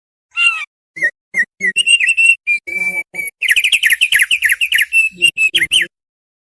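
An opior paruh tebal (thick-billed opior) singing: a run of short, quick whistled and chirping notes that becomes a dense, fast twittering about halfway through, then stops abruptly near the end.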